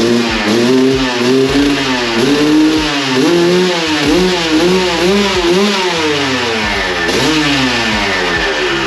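Suzuki RM250's single-cylinder two-stroke engine running with the throttle blipped over and over, the revs rising and falling about every half second to a second, just after a new head gasket was fitted.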